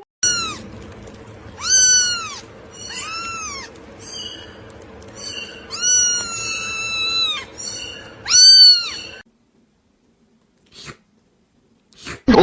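A cat meowing repeatedly in short rising-and-falling calls, with one longer drawn-out meow in the middle. It stops about nine seconds in.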